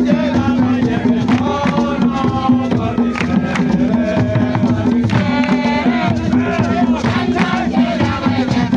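A group of voices singing and chanting together, with percussion keeping the rhythm and a steady low hum underneath.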